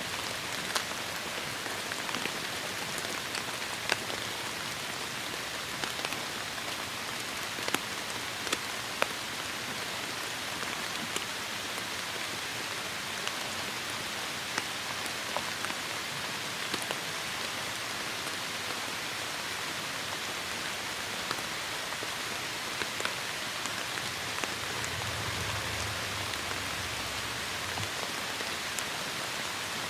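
Steady heavy rain with sharp individual drops ticking on a near surface. A soft low rumble swells briefly near the end.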